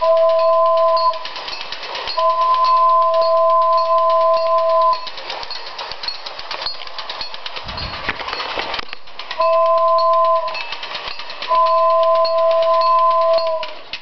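Sound-equipped model train locomotive blowing its two-note horn four times, two short blasts and two longer ones, over the rapid clicking of the running train. A brief low rumble comes about eight seconds in.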